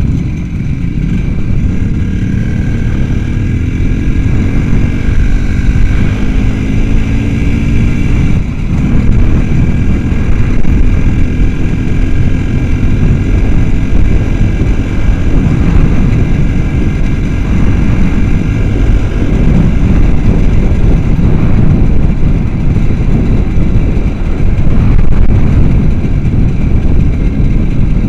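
Small motorcycle engine running under way with a dense rumble, its pitch rising steadily over the first eight seconds, dipping briefly, then running on at a steady speed.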